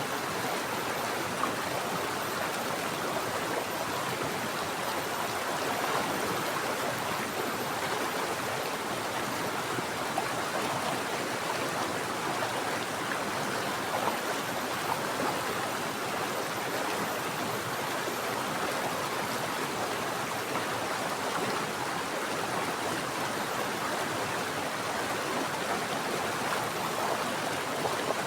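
Mountain stream flowing steadily over rocks, an even rushing and gurgling of running water.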